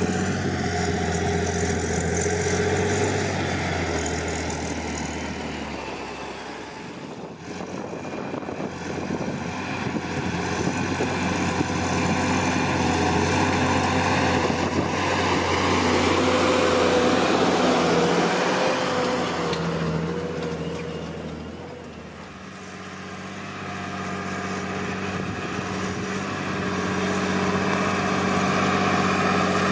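John Deere 8520T tracked tractor's 8.1-litre six-cylinder PowerTech diesel working under load pulling a four-furrow plough. Its sound grows fainter twice, about a quarter and three quarters of the way through, and swells back each time.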